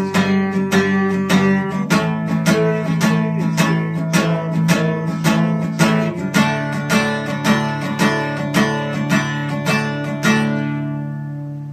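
Acoustic guitar strummed in a steady rhythm, about two or three strums a second. A last chord near the end is left to ring out and fade.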